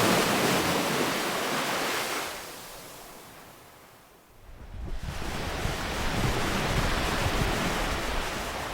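Ocean waves breaking: one wave washes in and fades away over the first four seconds, then the next surges in about halfway through and keeps rushing.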